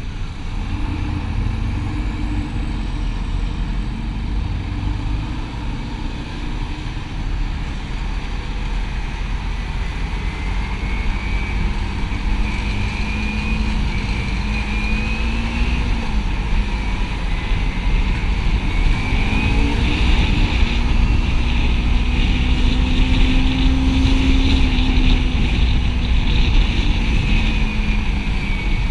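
Motorcycle engine running under way, its pitch rising and falling as the throttle and speed change, over a steady rumble of wind and road noise.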